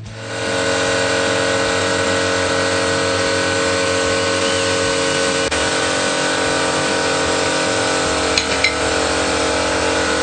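A motor running at a steady speed, spinning up at the start, then holding one even pitch before cutting off abruptly near the end, with a few light clicks about eight seconds in.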